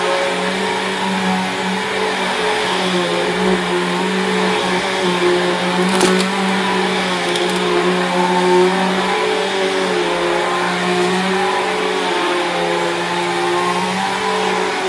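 Bissell CleanView upright vacuum cleaner running steadily, its motor hum wavering slightly in pitch, with a brief click about six seconds in.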